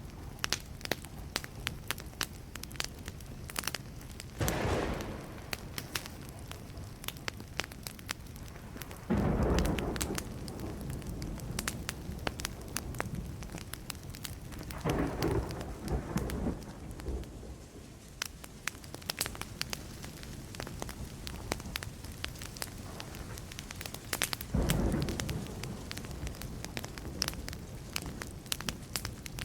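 Burning wood fire crackling with many sharp pops, and four rumbles of distant thunder rolling in and fading, each lasting a second or two.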